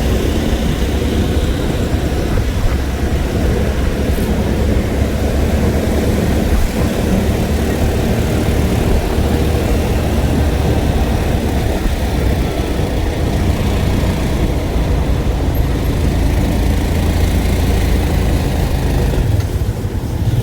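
An engine running steadily at an even speed, a continuous low hum with no revving.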